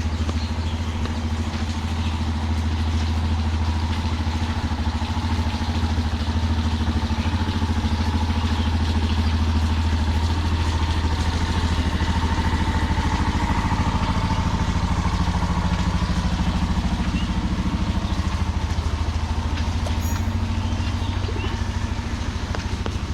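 A vehicle engine running steadily close by as a low hum, with a brief swell in the middle, over street noise.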